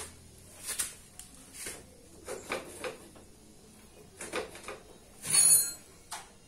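Intermittent knocks and scrapes of tools and parts being handled during motorcycle wheel-bearing repair work, with one louder, longer metallic scrape about five seconds in.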